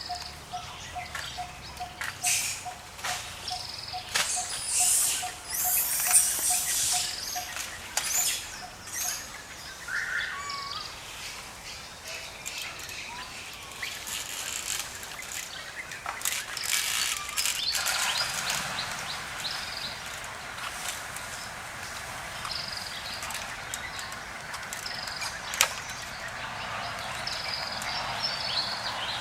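Outdoor ambience of high chirping calls, with a run of short even notes about three a second that stops about nine seconds in, over rustling and scattered clicks.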